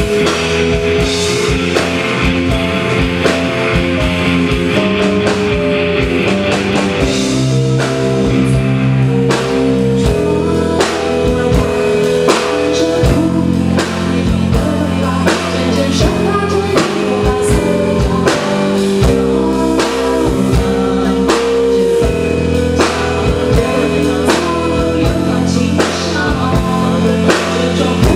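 Live rock song played by a band: a drum kit keeping a steady beat under bass and keyboard chords, with singing.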